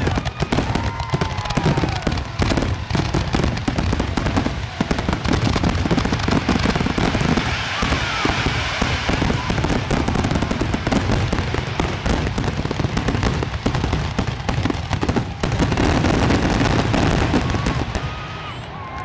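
Fireworks finale: a dense, rapid-fire barrage of aerial shell bursts and crackling, easing off near the end.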